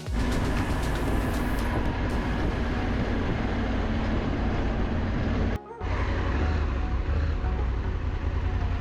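Motorcycle on the move: a steady rumble of engine, road and wind noise, with a short dropout about five and a half seconds in.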